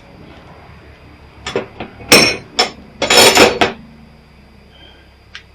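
Pieces of number 1 scrap copper clanking as they are set onto a scale. There are a few sharp clanks, then a longer metallic clatter about three seconds in.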